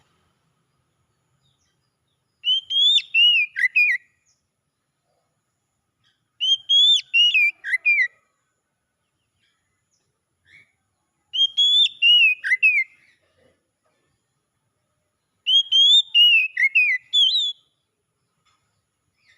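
Oriental magpie-robin (kacer) singing: one short phrase of slurred, whistled notes that rise then fall, repeated four times about four seconds apart with silence between.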